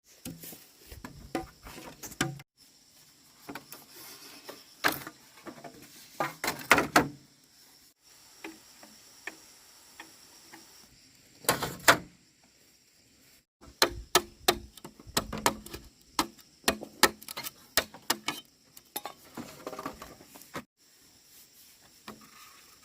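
Irregular knocks, taps and clatter in scattered bunches, with quieter stretches between; a cluster about twelve seconds in and a busier run a little later are the loudest.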